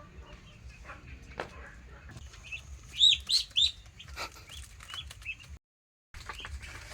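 Ducklings peeping: a quick run of loud, high chirps about three seconds in, then softer scattered peeps. The sound drops out completely for a moment near the end.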